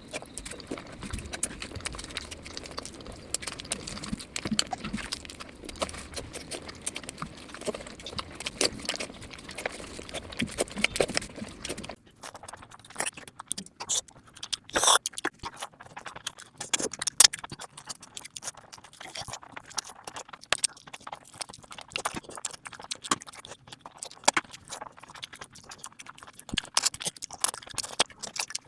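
Close-miked eating sounds: wet mouth clicks, smacks and chewing of mutton curry, irregular and continuous. About twelve seconds in, the low background rumble drops away and the clicks sound drier and sharper.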